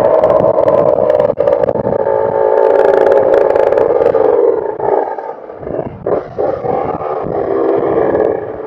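Motorcycle engines running while riding in slow traffic. A steady engine note holds for the first four seconds or so, then falls away and gets quieter about halfway through as the throttle is eased, with an uneven lower note after that.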